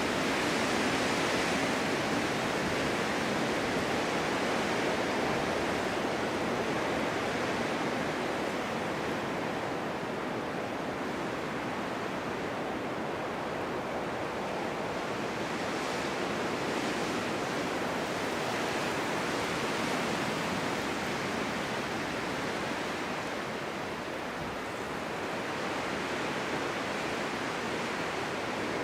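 Steady wind of a snowstorm, a dense hiss that eases a little in the middle and swells again near the end.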